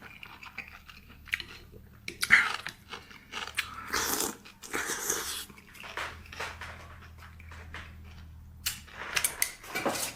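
A person biting and chewing food close to the microphone, with irregular wet mouth noises and small crunches.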